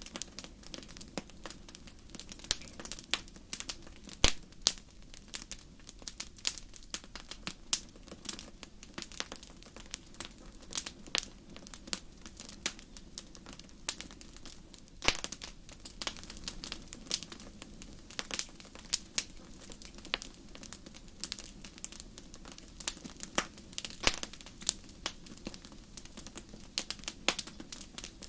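Wood fire crackling in a fireplace: irregular sharp pops and snaps, several a second, over a steady low noise from the burning logs.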